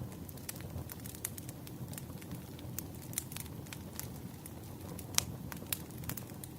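Wood fire crackling: irregular sharp pops and snaps over a low steady rumble of the burning logs, with one louder pop about five seconds in.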